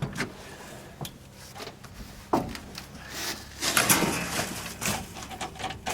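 Scattered knocks, clunks and rubbing from the cab of an old truck as its stiff gear lever is worked into neutral, with a busier stretch of clattering about two-thirds of the way through.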